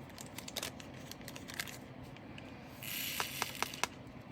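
Small clicks and taps of resin diamond-painting drills and tools being handled, with a short rustle about three seconds in followed by a few sharp clicks.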